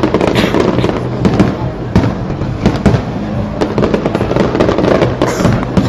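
Fireworks display: an irregular string of loud bangs and crackles, several a second, over a steady low rumble.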